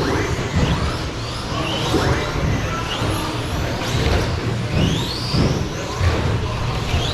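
Several 1/16-scale electric short course RC trucks racing, their motors whining up and down in pitch as the throttles open and close, overlapping one another over a steady bed of track noise.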